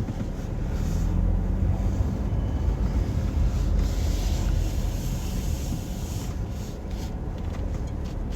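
Steady low rumble heard from inside a car, with a few brief swells of hiss.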